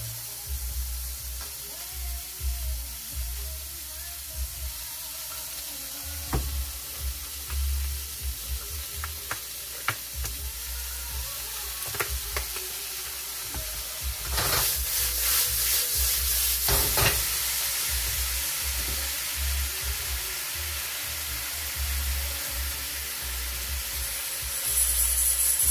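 Shrimp, dumplings and vegetables sizzling in a hot wok, with a spatula clicking against the pan as the food is stirred. The sizzle swells loudly for about three seconds around the middle.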